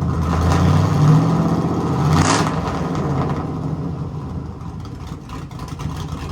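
Cammed 5.3-litre LS V8 engine running, with a brief rev about two seconds in, then settling back to idle.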